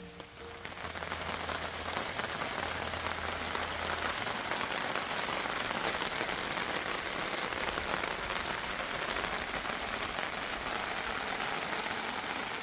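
Steady rain falling on a surface, fading in just after the start and fading out at the end.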